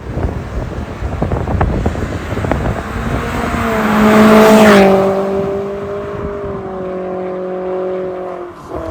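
Exhaust note of a Toyota Corolla Altis's 2ZR-FE four-cylinder engine through an MS-R valved muffler. It opens rough, with sharp crackles, builds to a loud rush about halfway, then settles into a steady drone that drifts slightly lower in pitch.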